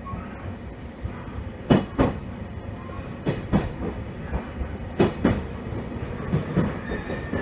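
Passenger train running along the line, its wheels clacking over rail joints in pairs about every second and a half over a steady running rumble.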